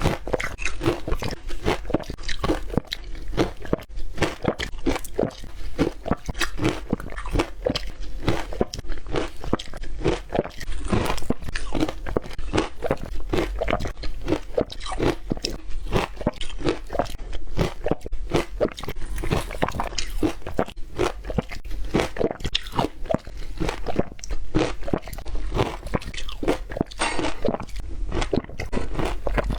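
Ice cubes being bitten and chewed, a continuous run of crisp crunches several times a second.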